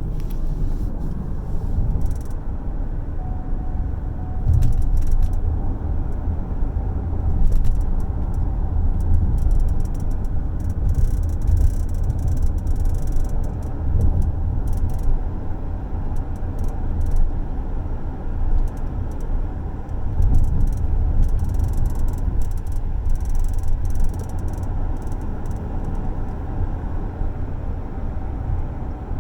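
A rattle from a car's rear seat, coming as irregular quick clicks and buzzes over the steady low rumble of road noise in the cabin while the car is driven.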